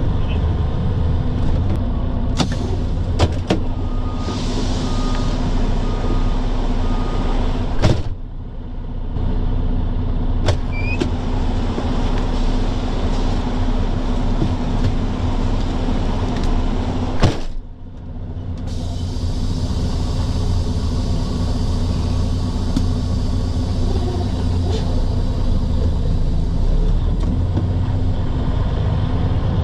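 Dump truck's diesel engine running steadily under way, a deep drone with road noise. There are a few clicks in the first few seconds and two brief dips in the sound about eight and seventeen seconds in.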